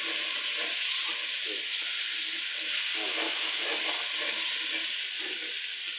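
Curry masala with dry ground spices sizzling in hot oil in a pan, stirred and scraped with a spoon: the dry spices being fried (bhuna) before water goes in.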